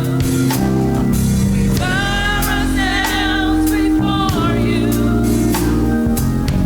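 Gospel song in a church service: singing with vibrato over held bass notes, with regular drum hits.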